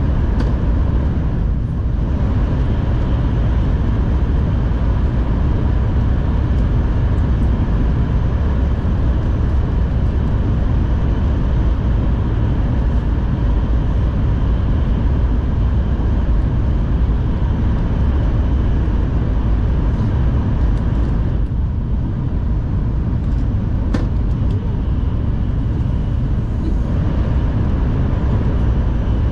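Cabin noise of an N700S Shinkansen train running along the line: a steady low rumble of wheels and track, with a faint steady tone running through it.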